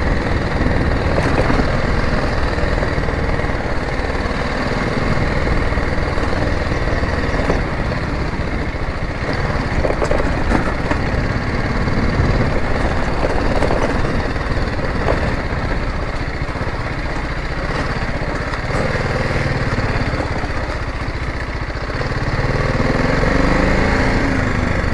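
Motorcycle engine running under way, steady for most of the time, its pitch rising near the end as it picks up speed.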